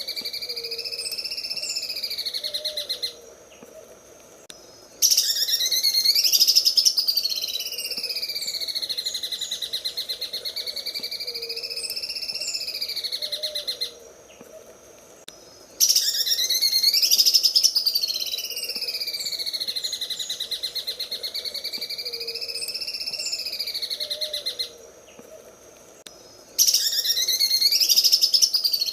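Leafbird (cucak ijo) singing its 'sewing machine' song: a very fast buzzing trill that wavers up and down in pitch. Bouts of about nine seconds are broken by two short pauses, and each new bout starts loudest.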